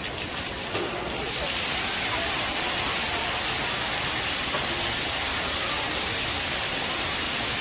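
Water from a fountain falling and splashing in a steady rush, growing fuller about a second in.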